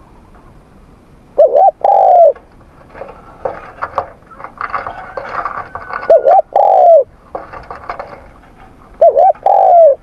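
Spotted dove cooing: three phrases, each a quick double note followed by a longer arched coo, repeated about every three and a half seconds. Fainter chirps and clicks fall between the phrases.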